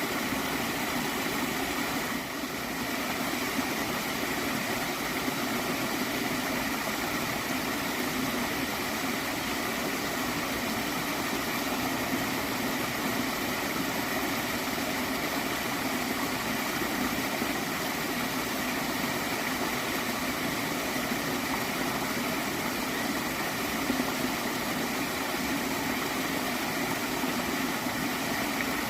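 Gentle stream of water flowing and gurgling steadily.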